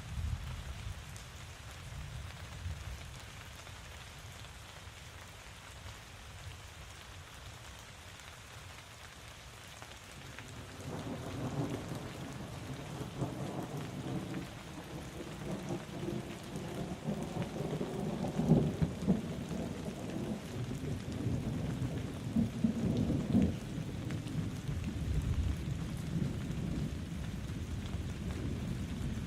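Steady rain falling, joined about a third of the way in by a long rolling rumble of thunder that swells, with its loudest cracks a little past the middle and again later.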